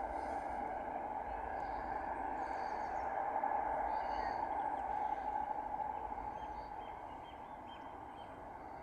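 European turtle dove purring: a low, rolling purr that carries on steadily and then fades away about seven seconds in. Small birds give short high chirps over it.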